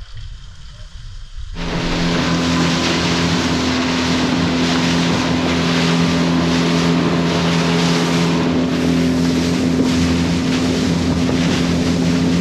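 A boat motor running at a steady speed, a steady droning hum under the rush of wind and water. It starts suddenly about a second and a half in.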